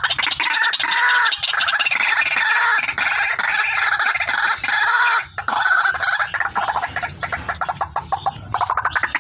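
White-breasted waterhen (ruak-ruak) calling, the female's call used as a trapping lure: an unbroken run of rapid, harsh repeated notes, with a brief break a little past halfway.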